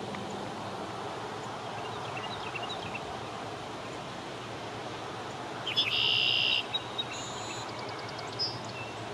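Red-winged blackbird song: a couple of short lead-in notes and then one harsh buzzy trill lasting under a second, about six seconds in, followed by a few thin high notes. Faint chirps come a few seconds earlier, over a steady low background noise.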